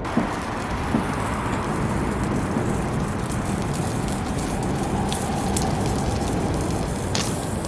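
Wood fire burning in a fire stand: a steady rushing hiss with scattered sharp crackles and pops, more of them in the last few seconds.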